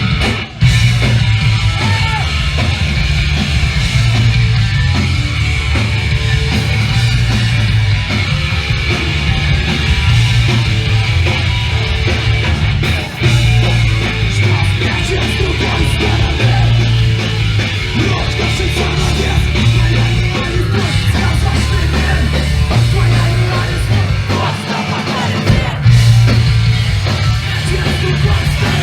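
Loud live hardcore punk band playing, with distorted guitars, bass and drums, and yelled vocals over them; the sound briefly drops out about half a second in, and dips again around halfway and near the end.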